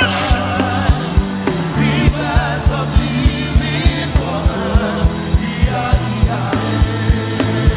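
Live gospel band music: a fast, steady drum beat over held bass notes, with faint singing.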